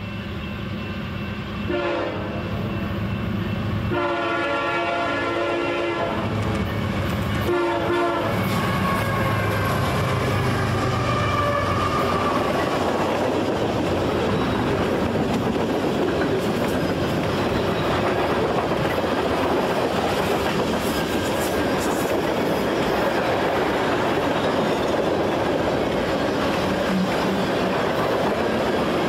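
Diesel locomotive sounding its multi-tone air horn in three blasts, short, long, short, over the low drone of its engine. The train then rolls past close by with loud, steady wheel and rail noise and clickety-clack.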